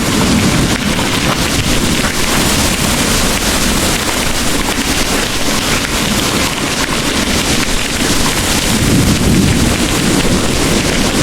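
Heavy rain pouring steadily as an even hiss, with a low rumble of distant thunder that fades in the first second and builds again near the end.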